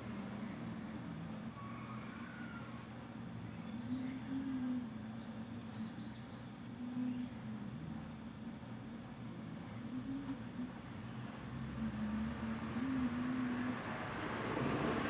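Insects trilling in one steady high tone, over a low hum that wavers slowly in pitch.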